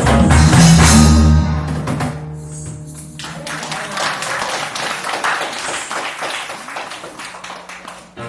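A live reggae band's loud closing chord, cut off about a second in, followed by audience clapping.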